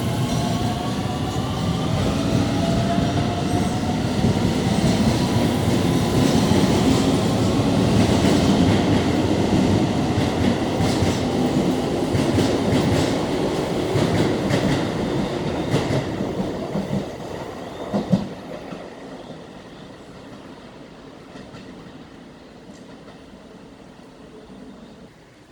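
A Keio Line electric train pulling out and passing by. In the first seconds its motors whine, rising in pitch as it speeds up. Then comes a heavy rumble with wheels clicking over the rail joints, and the sound fades after a last thump about 18 seconds in.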